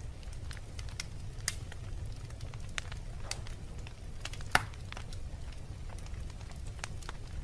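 Wood fire crackling in a fireplace: a steady low rumble of flames with scattered sharp pops and snaps, the loudest a single pop about four and a half seconds in.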